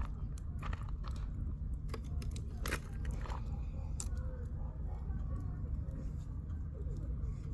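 Wood fire crackling, with sharp pops and snaps about once a second over a steady low rumble.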